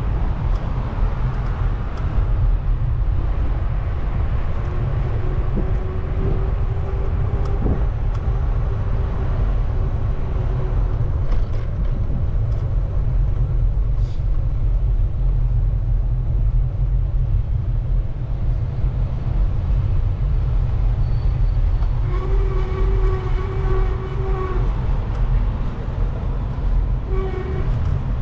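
Wind rumbling on the microphone of a moving bicycle, with a horn sounding near the end: one long note, then a short one a couple of seconds later.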